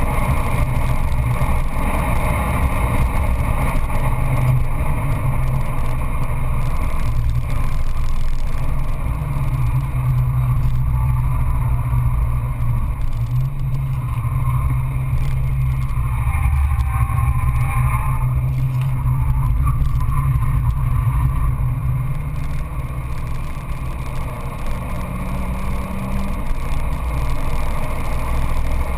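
Peugeot 206 GTI S16's 2.0-litre 16-valve four-cylinder engine driven hard, heard from inside the cabin with road and wind noise. Its note dips briefly a few times.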